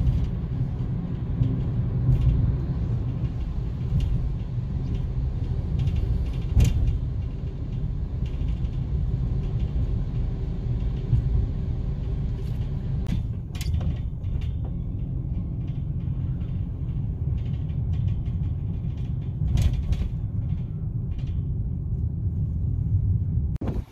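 Steady low rumble of a car being driven, heard from inside the cabin: road and engine noise, with a few faint clicks and knocks.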